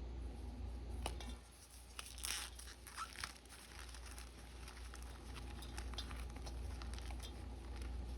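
Reformed gym chalk bar being crushed: a crunch a little over two seconds in, a few sharp cracks around it, then scattered soft crumbling crackles.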